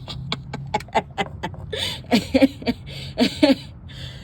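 A man laughing excitedly: first quick breathy bursts, about five a second, then a few short voiced laughs that rise and fall in pitch.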